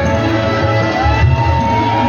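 A choir singing over instrumental accompaniment with a pulsing bass, a voice line rising and holding a high note about a second in.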